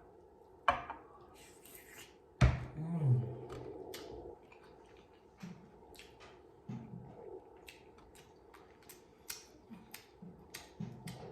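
Close-miked eating sounds: chewing and lip smacks, heard as many short wet clicks, with a louder knock about two and a half seconds in and a few brief low hums.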